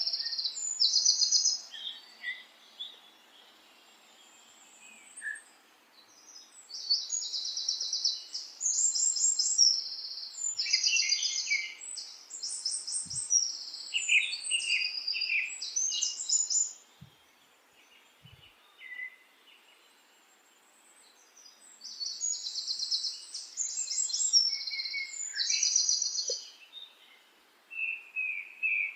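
A small songbird singing in bouts of rapid, repeated high trills and chirps: a short bout at the start, a long one from about 7 to 17 seconds, and another from about 22 to 27 seconds, with quiet pauses between.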